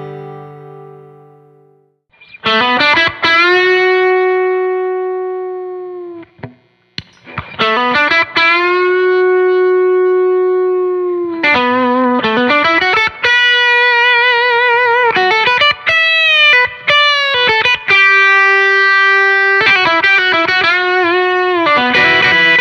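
Distorted electric guitar, played through a Retrospec Squeeze Box tube compressor pedal, playing long-held lead notes and double-stops with bends and vibrato. A chord dies away first, and the lead line starts about two seconds in.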